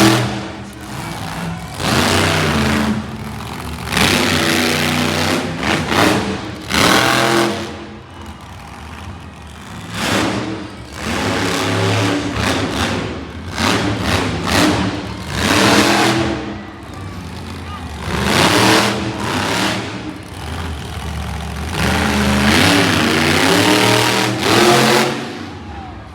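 Monster truck engine revving hard in repeated surges, one about every two seconds, its pitch climbing and falling with each blip of the throttle.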